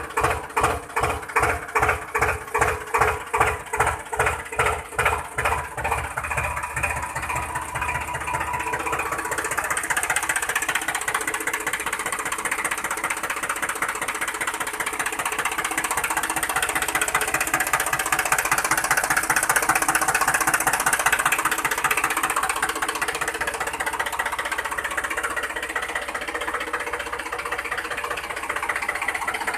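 A small motor in a homemade toy tractor runs under load in mud. For the first several seconds it pulses about twice a second, then it settles into a steady buzz.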